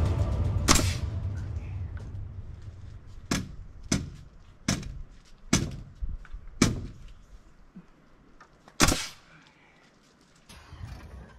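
Sharp hammer blows, seven of them at uneven spacing, driving a heavy header beam into a tight fit in the framing.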